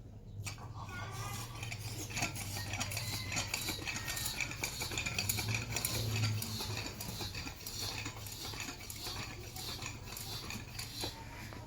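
Rapid, irregular clinking and scraping of small metal objects, over a steady low hum.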